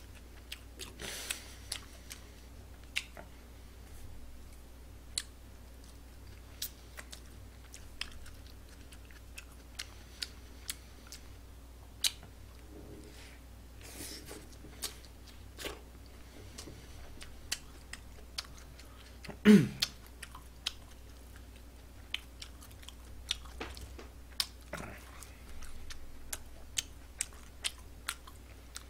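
Close-miked chewing and biting of a McDonald's burger, with many irregular sharp mouth clicks. About two-thirds of the way in there is one brief, louder low vocal sound that falls in pitch.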